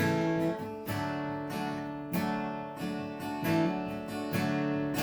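Acoustic guitar strummed in a steady rhythm, a chord struck about every half second, with no singing.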